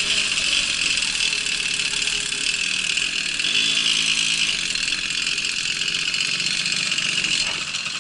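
Babetta moped's small 50 cc two-stroke engine running steadily.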